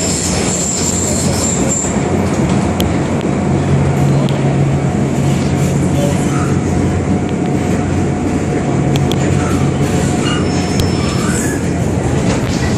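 MTR Island Line metro train running: steady rumble of the wheels on the rails with a low traction-motor hum. A high wheel squeal at the start fades out about two seconds in.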